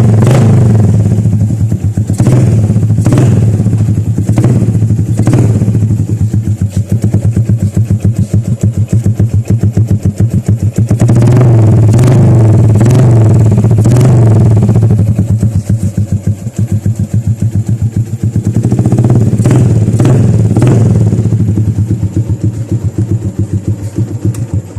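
Yamaha Jupiter MX 135's single-cylinder four-stroke engine with an SC Project full-system racing exhaust, running and revved in repeated sharp throttle blips. The exhaust note is very bassy.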